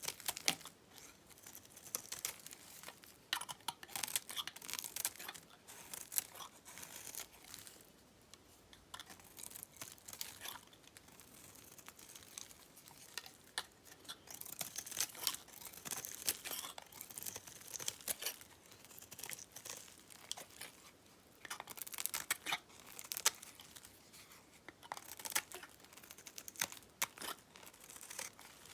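Knife cutting through dry, dyed soap: crisp crackling and crunching in short clusters, with quieter gaps between cuts.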